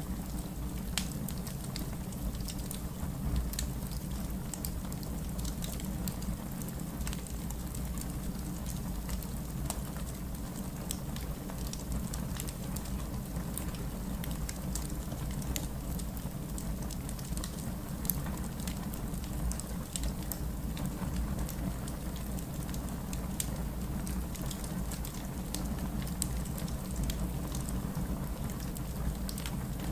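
Wood fire burning in a fireplace: a steady low rumble of the flames with many small pops and crackles scattered throughout.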